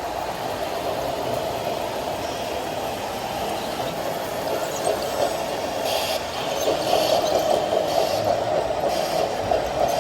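Small electric motors and gearboxes of radio-controlled model vehicles running, a steady whir that grows louder a little past halfway.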